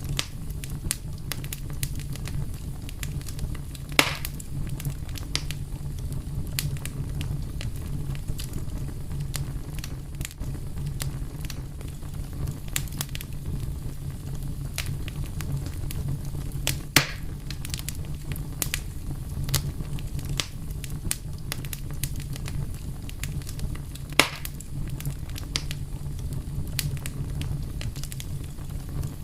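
Wood fire crackling: a steady low rumble of burning under frequent small snaps, with three louder pops, about four seconds in, near the middle and about 24 seconds in.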